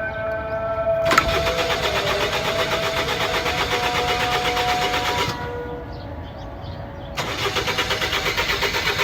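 Car starter motor cranking the engine in a fast, even chug without it catching: a hard start. It pauses for about two seconds about five seconds in, then cranks again. There is a sharp click about a second in.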